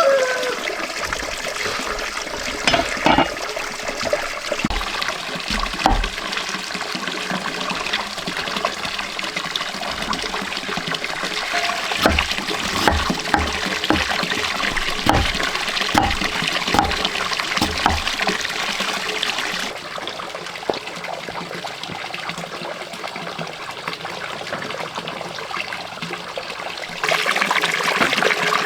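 Water running and trickling steadily, with scattered knocks and clicks through the first half.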